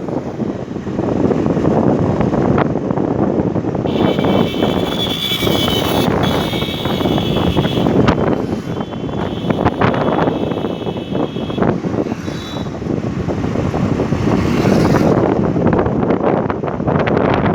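Vehicle noise mixed with wind buffeting the microphone, steady and loud, as heard from a moving vehicle. From about four seconds in until about twelve, a high-pitched tone sits over it.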